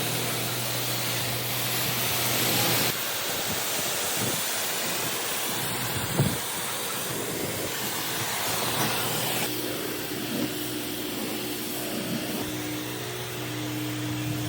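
Pressure washer running: a steady engine hum under the hiss of the high-pressure water spray. The spray sound changes about three seconds in and again near ten seconds, with a short knock about six seconds in.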